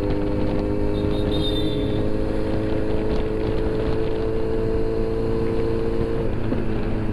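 Kawasaki Z900's inline-four engine running at a steady pitch while the bike is ridden, with a low rumble of wind on the microphone. The engine note shifts about six seconds in.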